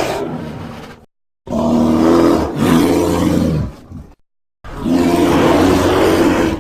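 Roar sound effects for the giant prehistoric bear Arctotherium: the tail of one roar ends about a second in, then a longer roar in two swells, then a third roar starting near the end, each cut off into dead silence.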